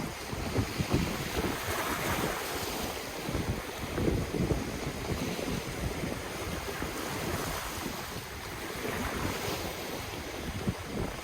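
Ocean surf washing on the shore, swelling twice, with wind buffeting the microphone as an uneven low rumble.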